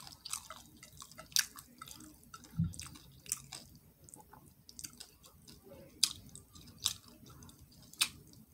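Close-up eating sounds: chewing with wet smacking and sharp clicks as fried catfish is bitten and picked off the bone.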